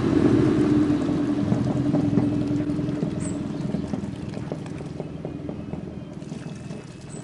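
Petrol glugging from a large plastic bottle into a scooter's fuel tank, a dense gurgling pour that gets steadily quieter as the bottle empties.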